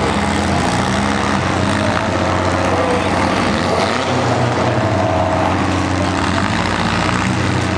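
Engines of several compact demolition-derby cars running at once, revving up and down.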